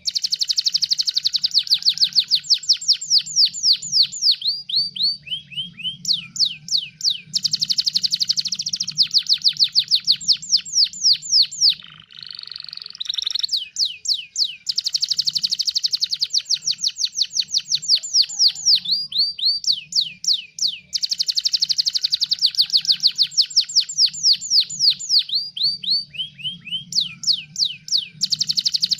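Domestic canary singing long trilled phrases of rapid, repeated high sweeping notes, about eight to ten a second, with short breaks between phrases. About twelve seconds in comes a brief harsher buzzy phrase.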